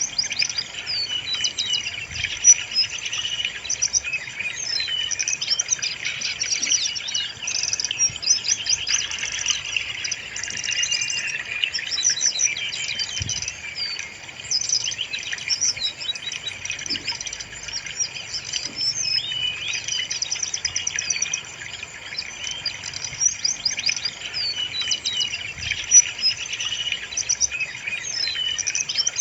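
Brown-chested jungle flycatcher singing continuously, a dense run of high-pitched rapid trills and warbling phrases with barely a pause.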